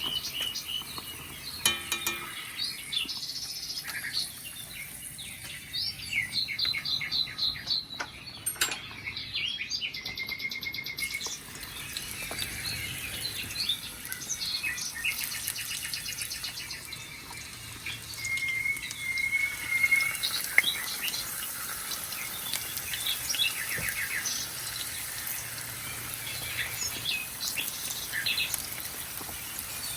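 Several birds chirping and singing: a busy mix of short chirps, quick trills and whistled notes throughout, over a faint steady hiss.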